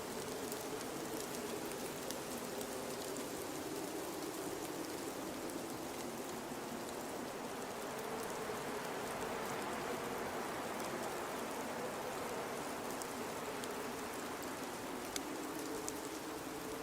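Blizzard wind blowing steadily in a dense rushing hiss, with a low moaning tone that wavers in pitch and faint scattered ticks.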